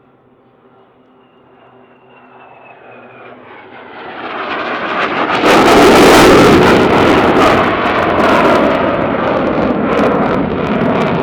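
F/A-18 Hornet jet fighter with its twin jet engines, approaching and passing low: a faint high whine that falls slightly, then a roar that builds to a peak about six seconds in and stays loud and crackling.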